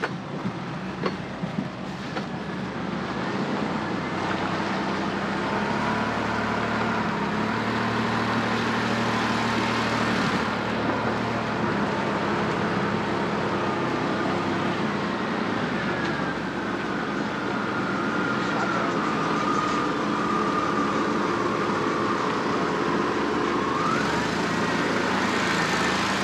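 A heavy machine's engine runs steadily under a thin whine that slowly wavers in pitch and climbs briefly near the end.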